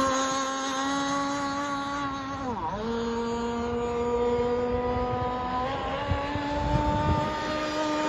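Gas-powered Skater RC boat's two-stroke engine running at high revs with a steady buzzing whine. The pitch dips sharply and briefly about two and a half seconds in, then comes back up, and steps up slightly near the end.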